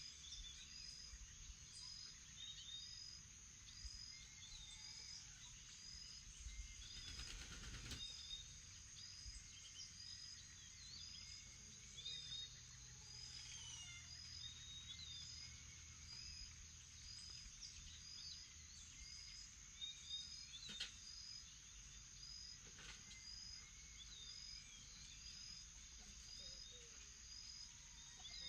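Faint morning chorus: a steady high insect drone with a short high note repeating about one and a half times a second, under scattered bird chirps and calls. A brief rush of noise comes about seven seconds in.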